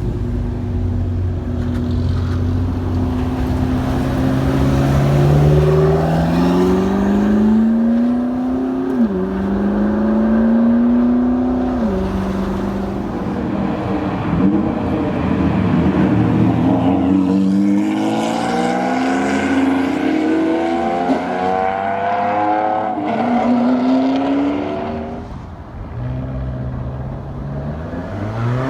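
Supercar engines accelerating hard, revving up through the gears: the pitch climbs and drops back sharply at each upshift, about nine and twelve seconds in. Later, several rising engine sweeps overlap as more cars pull away.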